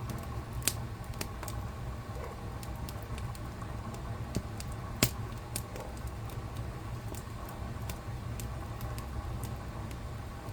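Fireplace fire crackling: scattered sharp pops over a steady low rumble, with the loudest pop about five seconds in.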